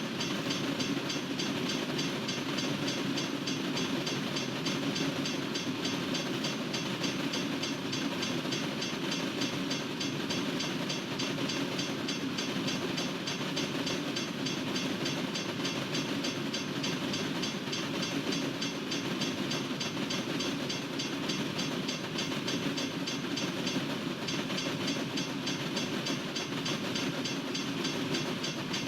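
Freight train cars rolling steadily past on the rails, a continuous, even wheel-on-rail noise.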